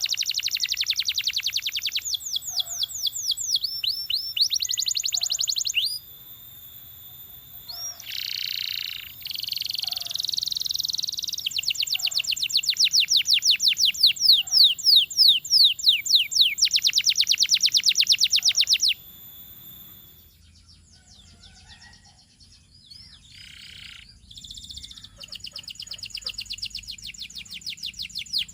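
Domestic canary singing long phrases of rapid trilled notes, each phrase a fast run of the same note repeated. It is loud for most of the stretch, then softer and more broken for several seconds before picking up again near the end.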